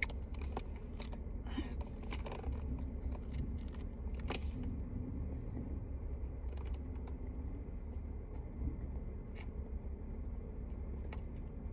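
Steady low rumble of a car, heard from inside the cabin, with scattered small clicks and rustles.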